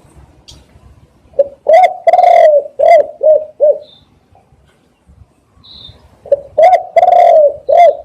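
Spotted dove cooing: two phrases of short low coos gathered around one longer drawn-out coo. The first phrase starts about a second and a half in; the second starts about six seconds in and runs on past the end. A few faint high chirps fall between the phrases.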